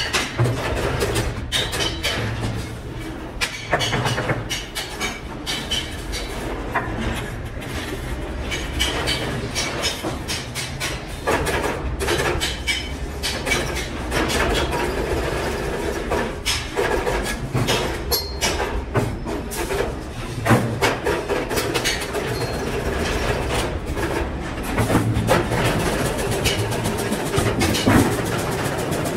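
Workshop machinery running steadily under many irregular sharp clicks and knocks, typical of iron-wire cage making.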